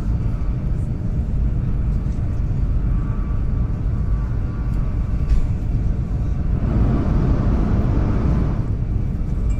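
Inside the cabin of a Chinese high-speed train running at speed: a steady low rumble with rushing noise. About six and a half seconds in, a brighter hiss swells for a couple of seconds.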